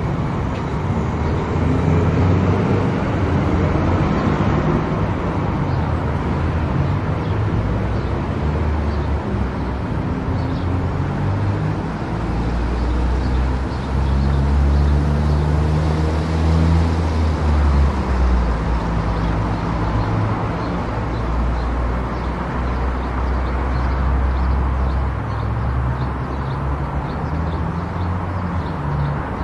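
Car driving on an expressway: steady road and tyre noise with a low engine drone that shifts in pitch now and then and grows louder for several seconds around the middle.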